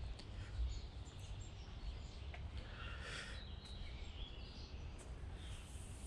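Small birds chirping here and there over a steady low rumble of outdoor background noise.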